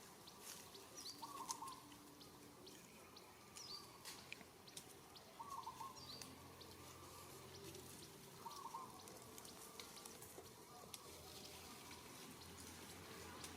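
Faint outdoor ambience with short chirping calls repeating every few seconds, and scattered small clicks and ticks.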